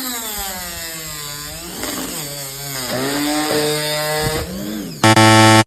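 Angle grinder running against cotton paper, its motor whine dipping in pitch and recovering several times as it is pressed into the material. Near the end, a short, much louder steady buzzing tone cuts off abruptly.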